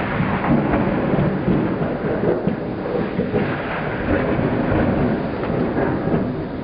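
Rolling thunder over a heavy summer downpour: a continuous, fluctuating rumble with the steady hiss of hard rain, with no single sharp crack.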